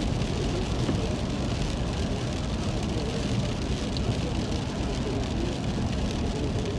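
Steady rain noise mixed with the even rumble of a moving car's road and engine noise.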